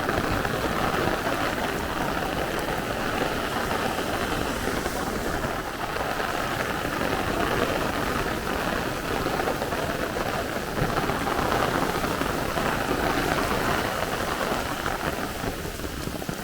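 Heavy downpour rain falling steadily, a dense, even hiss of rain on the ground.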